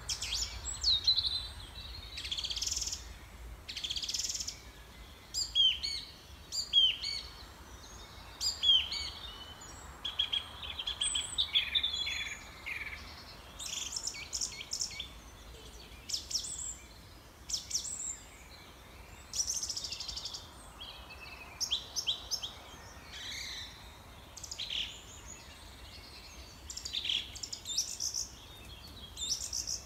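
Birds chirping and singing: many short, quick-gliding calls one after another, over a faint steady low hum.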